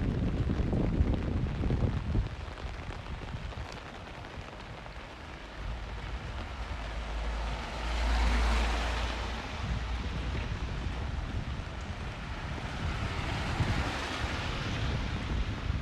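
Rain on a city street with vehicles passing on the wet road: the hiss of tyres swells and fades twice, loudest about halfway through and again near the end, over a low rumble of traffic.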